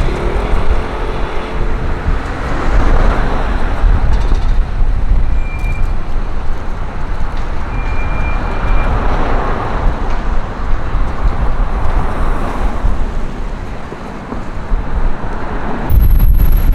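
Street traffic: vehicles driving past one after another, the road noise swelling and fading with each pass, with two brief high tones in the middle and a loud low rumble near the end.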